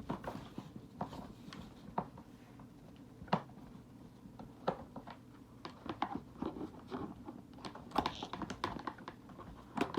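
Irregular light clicks and taps of a plastic toy's parts being handled and screwed back together with a screwdriver, over a low steady hum.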